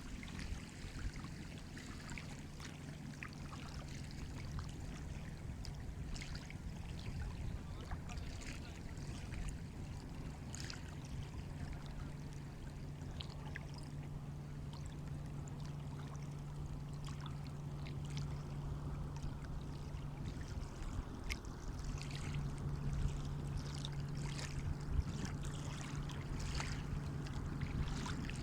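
Seawater washing and lapping, with many small splashes and fizzing crackles that grow busier in the second half, over a steady low hum.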